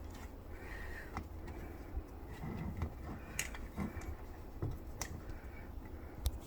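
A few light clicks and knocks, the sharpest near the middle and near the end, over a low steady hum in a small room.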